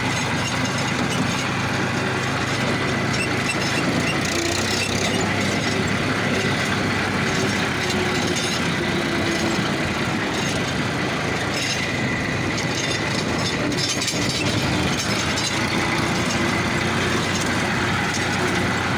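Massey Ferguson 1035 DI tractor's three-cylinder diesel engine running steadily under way at full speed, with a dense rattling clatter over the engine note.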